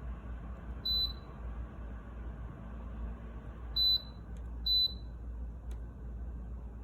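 Three short, high electronic beeps from the Dreo tower space heater's controls: one about a second in, then two close together around four to five seconds. Under them runs a steady fan hiss.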